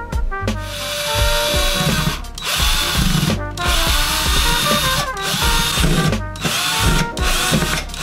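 Cordless drill running in about five bursts of a second or so with short pauses between, driving into the wall at a monitor wall-mount bracket. Background music plays underneath.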